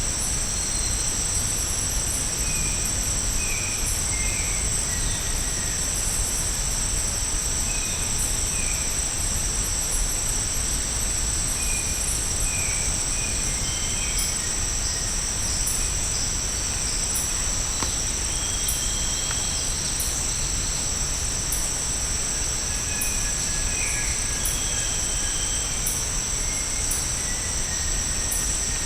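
Steady high-pitched drone of tropical rainforest insects, unbroken throughout. Brief scattered bird chirps and calls sound over it, with a low rumbling noise underneath.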